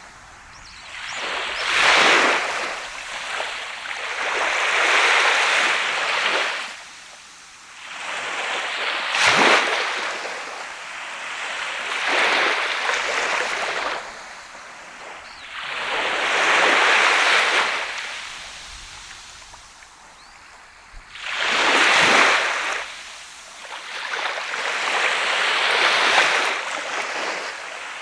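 Sea waves breaking on a sandy beach, one after another every few seconds. Each swells into a hissing wash and falls away, and a few land with a sharper crash.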